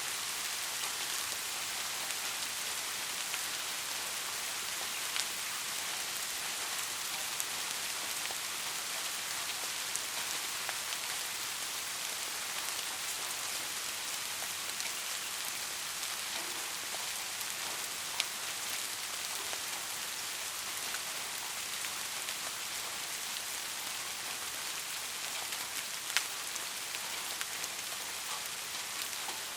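Steady rain falling on a surface: an even hiss with scattered individual drops ticking sharply, one louder drop hit about 26 seconds in.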